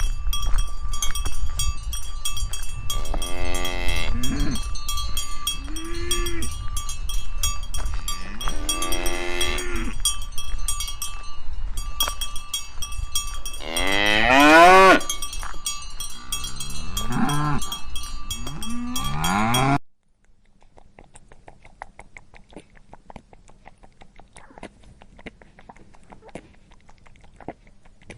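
Cows mooing: about seven long moos over steady ringing and ticking. The loudest is about halfway through and rises in pitch. About 20 s in it cuts off suddenly to a much quieter track with faint clicking.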